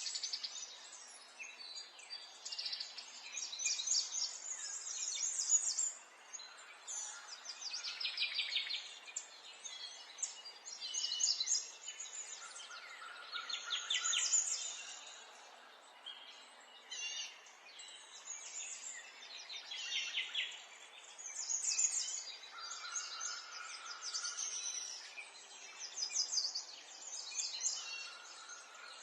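Several small songbirds chirping and singing in overlapping phrases, with fast trills and a few held whistled notes, over a steady background hiss.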